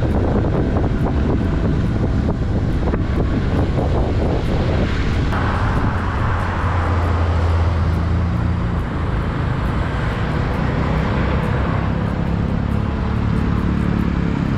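Honda Super Cub 50's small single-cylinder four-stroke engine running under way, over a steady rush of wind and road noise. The engine note changes pitch partway through.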